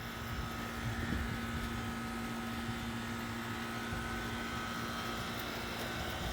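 Outdoor air-conditioning unit running nearby: a steady hum over a low rumble, with a thin higher tone held throughout.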